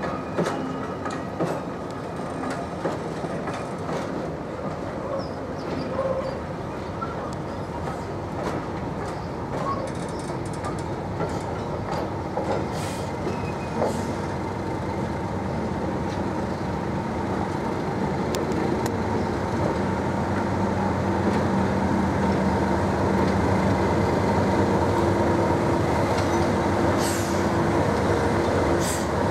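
A train of passenger coaches rolling slowly past, with scattered clicks and knocks from the wheels over the rail joints. In the second half, the steady engine hum of a Class 37 diesel locomotive, with its English Electric V12, grows louder as it draws level.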